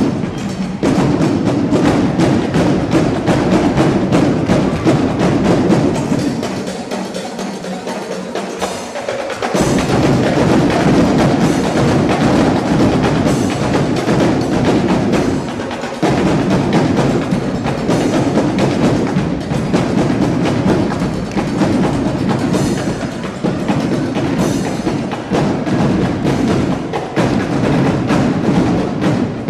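Drum line playing a fast percussion cadence of sharp, rapid drum strokes. The low bass drums drop out for about three seconds, roughly seven seconds in, then come back.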